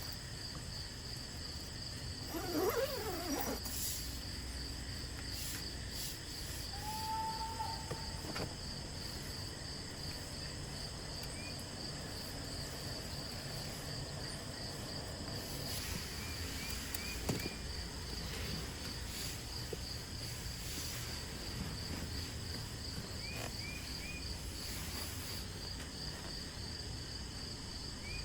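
Crickets or similar insects trilling steadily in a fast, even, high pulse over a low steady background rumble. Now and then there is a small call of three quick chirps, and one short, lower call about seven seconds in.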